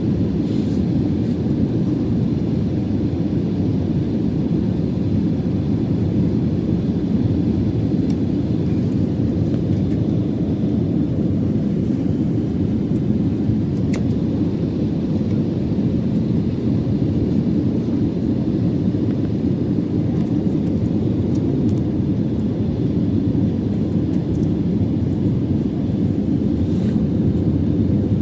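Airbus A320 jet engines on approach, heard as a steady low rumble that holds its level throughout.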